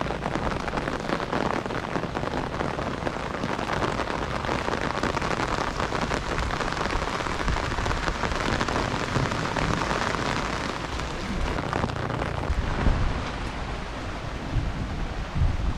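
Heavy rain pouring steadily onto the street in an even hiss, with uneven low rumbles in the last few seconds.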